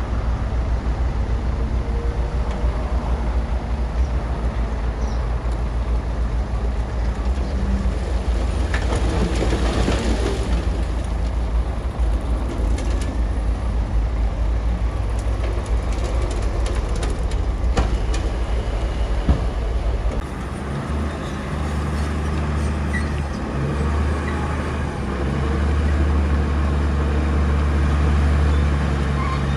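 Bulldozer's diesel engine running steadily under work, with a few metallic clanks in the middle; about two-thirds of the way through the engine note changes to a deeper, fuller hum.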